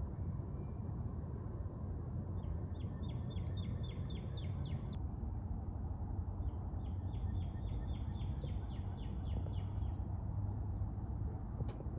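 A songbird singing two trills of quick down-slurred notes, about four a second, over a steady high insect drone and a low background rumble.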